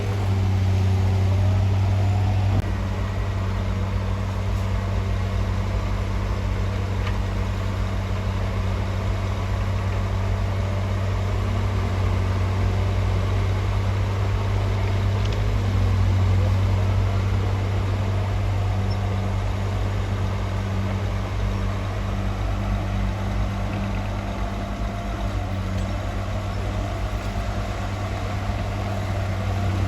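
Heavy diesel engine of earthmoving machinery running steadily with a deep hum. It eases slightly a few seconds in and swells again around the middle.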